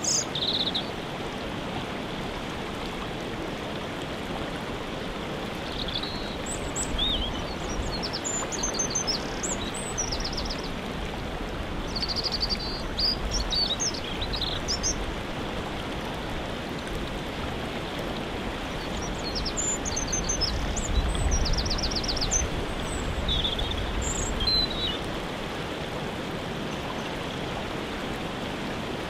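Steady rush of a waterfall, with small songbirds chirping and trilling over it every few seconds.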